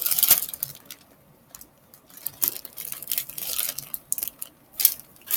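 Plastic packaging of soft flour tortillas being handled, giving scattered short crinkles and clicks, with a brief lull about a second in.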